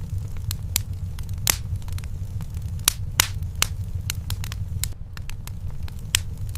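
Wood fire in a fireplace burning with a steady low rumble and irregular sharp crackles and pops, a few of them louder, about a second and a half in, near the middle and near the end.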